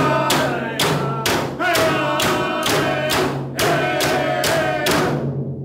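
Inupiaq drum-dance music: a frame drum struck about twice a second under held singing voices, fading out near the end.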